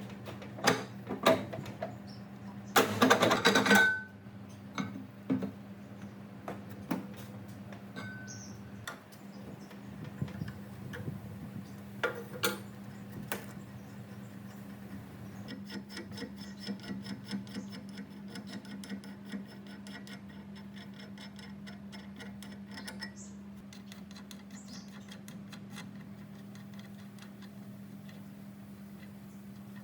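Scattered clicks and knocks of hand work on metal machine parts over a steady low hum. A loud, harsh noise lasts about a second near the start, and a run of fast, even ticks comes midway.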